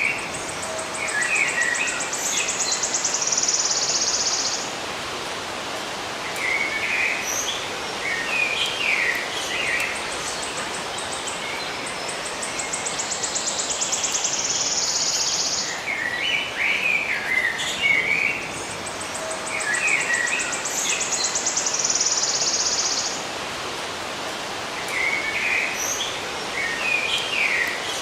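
Songbirds chirping in short bursts, with a high, rapid buzzing trill lasting a few seconds, over a steady hiss. The same stretch of sound repeats about every fifteen seconds, a looped nature recording.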